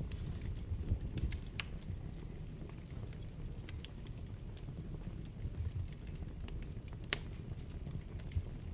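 Wood fire burning in a fireplace: a steady low rumble of flames with scattered crackles and sharp pops, the loudest pop about seven seconds in.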